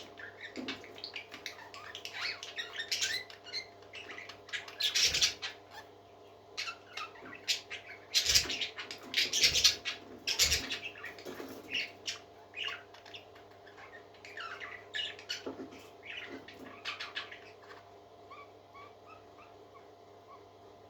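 Baby parrot chicks peeping in quick, short high chirps, with a few louder, sharper calls about five and eight to ten seconds in; the chirping thins out near the end. A steady low hum runs underneath.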